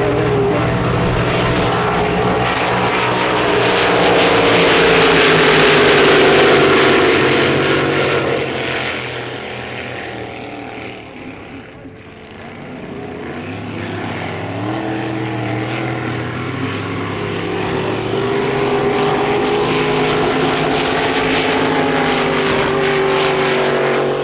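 Race powerboat engines running at speed, with a steady pitch that shifts slowly as they pass. The sound is loudest about six seconds in, fades to its quietest about twelve seconds in, then builds again as boats come back past.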